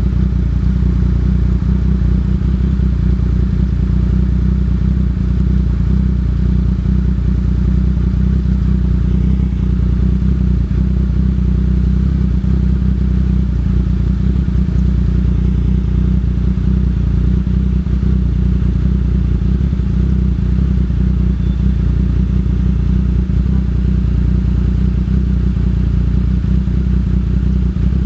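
Yamaha MT-09 Tracer's three-cylinder engine and exhaust running at a steady engine speed, a constant deep drone with no revving.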